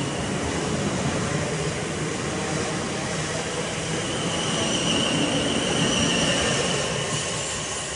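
South Western Railway electric multiple unit passing through at speed: a dense rumble of wheels on rails with a high steady whine over it. It grows loudest about five to six seconds in and begins to fade near the end as the train draws away.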